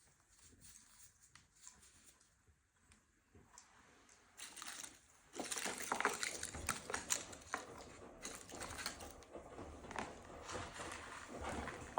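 Dry birdseed rustling and crackling as it is handled, with many small clicks. It starts suddenly about five seconds in.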